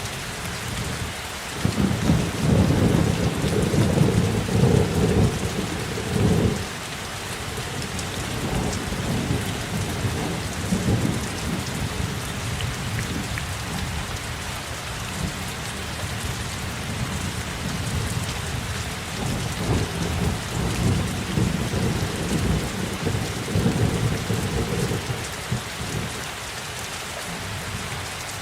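Steady heavy rain falling, with rolling thunder: a loud low rumble from about two to six seconds in, then weaker rumbles that come and go before dying away near the end.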